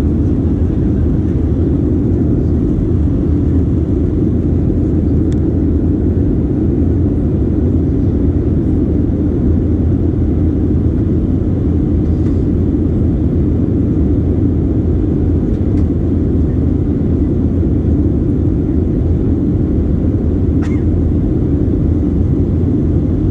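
Steady low rumble of an airliner's jet engines and rushing airflow, heard inside the cabin in flight.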